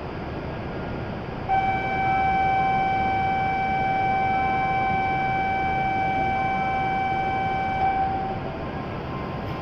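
A steady electronic warning tone comes on abruptly about a second and a half in, holds one pitch for about six seconds and stops, over a constant station hum: the door-closing warning as a Shinkansen departs.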